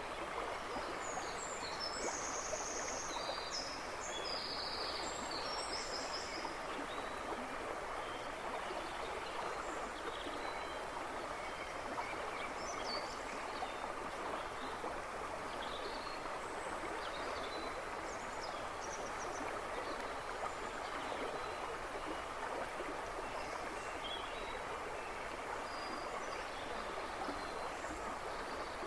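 River rushing and babbling steadily, with songbirds twittering in the background: a cluster of high chirps in the first few seconds, then scattered short calls.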